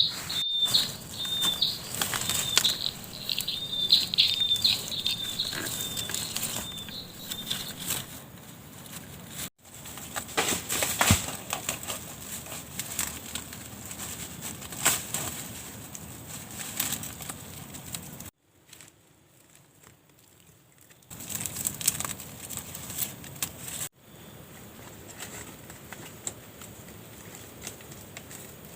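Forest ambience: a small bird chirps repeatedly for the first several seconds over constant crackling and rustling clicks and a thin steady high tone. The sound cuts off abruptly several times, with a much quieter stretch a little past the middle.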